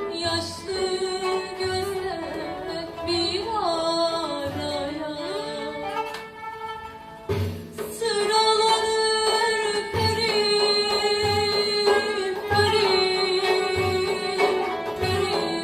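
Turkish classical music ensemble performing a şarkı in makam Hüseynî in düyek rhythm: melody lines over regular low drum strokes, growing louder about halfway through.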